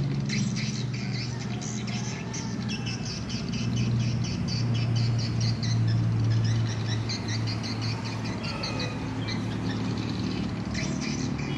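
A flock of swiftlets twittering, with many short, rapid chirps overlapping throughout, over a steady low hum.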